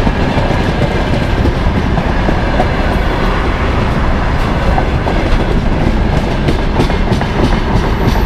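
Container flatcars of a freight train rolling past, their wheels clattering over the rail joints in a steady rumble with a run of clicks.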